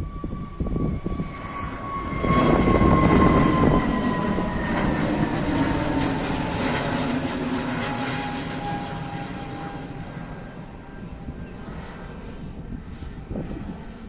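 IndiGo airliner taking off: engine noise swells about two seconds in, peaks, then slowly fades, with a high whine that falls steadily in pitch as the aircraft passes.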